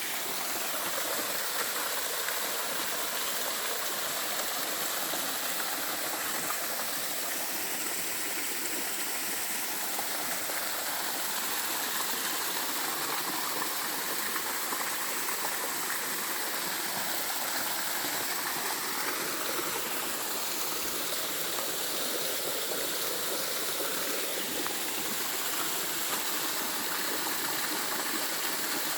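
Small cascade waterfall: a steady, even rush of falling and splashing water.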